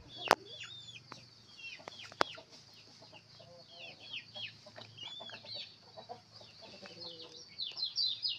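Birds chirping: many short, high, falling calls in quick succession, thickest near the end. Two sharp clicks come in the first two seconds or so.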